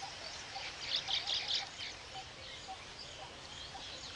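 Weaver birds chattering: short, high chirps, a dense cluster about a second in, then fainter calls, over a steady background hiss.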